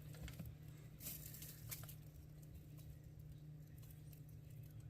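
Near silence with a few faint, short taps about a second in and again shortly after: a broody hen pecking at worms offered to her.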